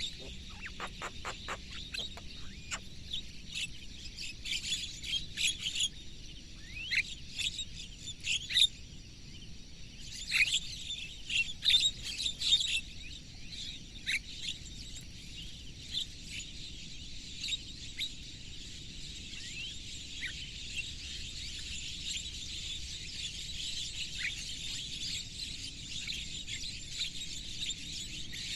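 Wild birds chirping and calling in many quick, high notes, busiest in the first half, opening with a fast rattling run of notes, over a steady high insect hiss.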